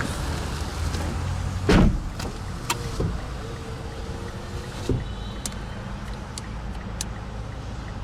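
Inside a car cabin: a steady low hum with a loud thump about two seconds in and several sharp clicks as controls are handled, and a brief thin electric motor whine from about three to five seconds in.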